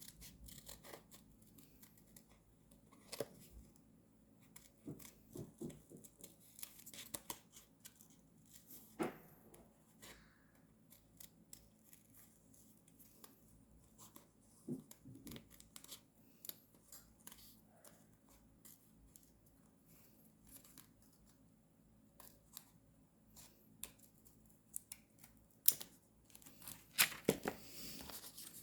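Scissors cutting paper, with paper being handled: scattered short snips and rustles, busier and louder near the end.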